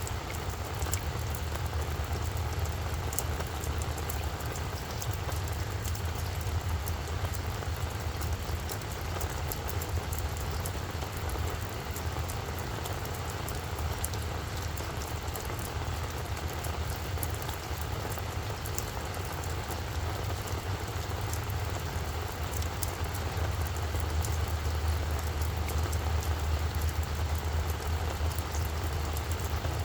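Steady rain falling, with scattered sharp drop ticks, over a continuous low rumble that grows louder in the last few seconds.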